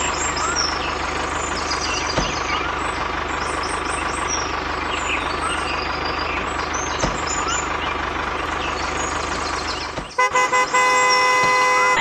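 A motor vehicle running steadily, then its horn honks about ten seconds in: a few short toots and then one held blast.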